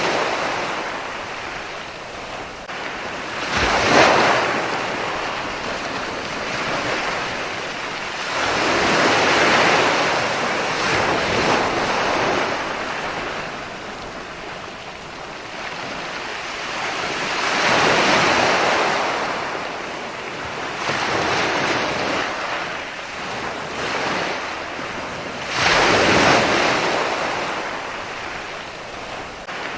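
Ocean surf: waves breaking and washing in. The rush of water swells and fades in slow surges every several seconds.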